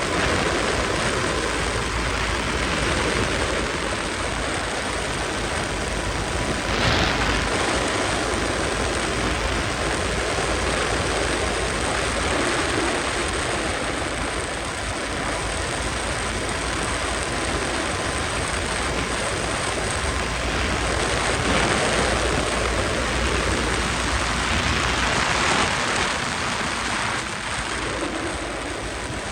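Wind rushing over the microphone on a KTM RC 200's single-cylinder motorcycle running at speed, a steady noisy roar that swells louder about seven seconds in and again near the end.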